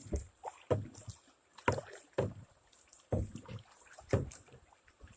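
Kayak paddling: irregular paddle strokes about once a second, each a knock on the kayak's hull followed by a short splash.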